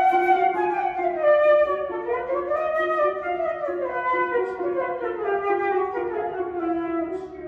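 Concert flute playing a smooth melodic line with piano accompaniment; the melody rises and falls twice and settles on a lower note near the end.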